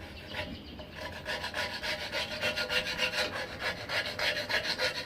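Mower blade held in a vise being scraped with a hand scraper: rapid back-and-forth scraping strokes, about five a second, starting about a second in, with the steel blade giving a faint steady ring under them.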